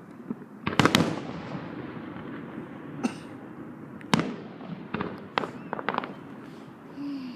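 Aerial fireworks exploding. A loud cluster of bangs comes about a second in, followed by single sharp bangs and a quick run of smaller crackling pops.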